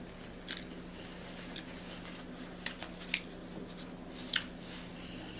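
Close-up chewing of a sub sandwich: a handful of short, wet mouth clicks and smacks spread over a few seconds, over a faint steady hum.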